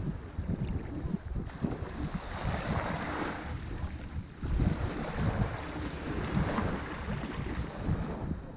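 Ocean waves breaking on a shore, the hiss of the surf swelling twice, about three seconds in and again around six seconds, over a steady low rumble of wind on the microphone.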